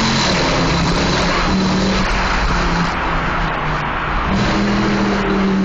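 Mercedes-AMG C63's V8 engine and exhaust running loud under throttle, echoing in a road tunnel. It is a steady, dense drone whose low note fades and returns a few times.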